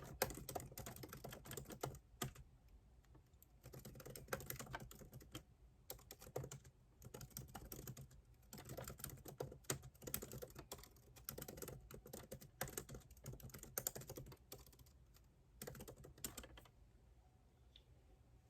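Typing on a computer keyboard: rapid key clicks in bursts with short pauses between them, stopping near the end.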